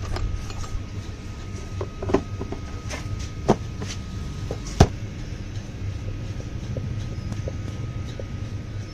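A steady low rumble with scattered sharp clicks and knocks, the loudest about two, three and a half and five seconds in.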